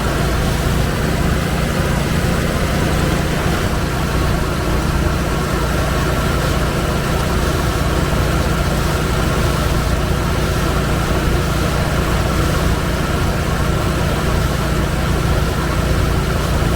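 1958 Chevrolet COE truck's engine idling steadily, with an even, unchanging rumble.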